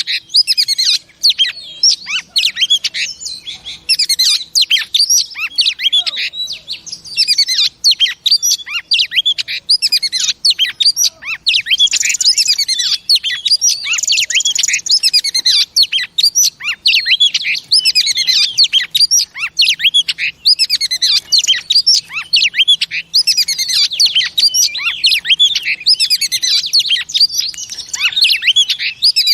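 Female oriental magpie-robin singing in a rapid, unbroken stream of high chirps, whistles and trills. This is the kind of female song that keepers play to excite caged males.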